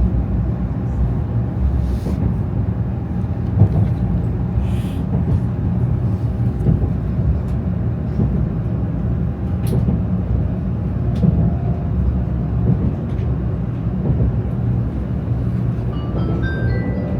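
Shinkansen bullet train cabin: the steady low rumble of the train running on the line, with a few faint clicks. Near the end an onboard chime melody of bright, rising notes starts up, the signal before a cabin announcement.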